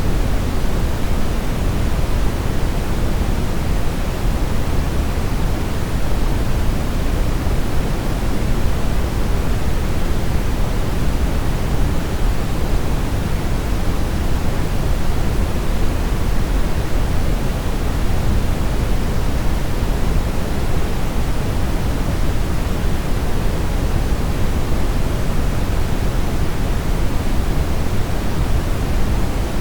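Steady brown noise: a constant, deep rumbling hiss, strongest in the bass and falling off toward the treble, with no changes.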